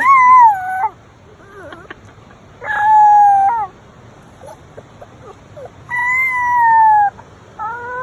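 An animal giving long, high, steady cries: three of about a second each, the last one falling slightly in pitch, then a quick run of shorter ones near the end.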